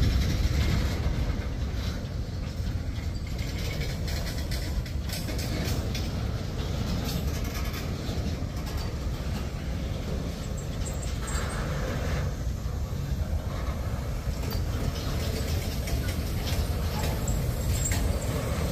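Freight cars of a Norfolk Southern manifest train rolling past: a steady low rumble of steel wheels on rail, with scattered clicks and knocks from the wheels and couplings.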